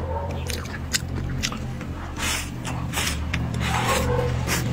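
Close-up chewing of a mouthful of braised meat: wet mouth smacks and sharp clicks, with a few louder bursts of chewing in the second half. A steady low hum runs underneath.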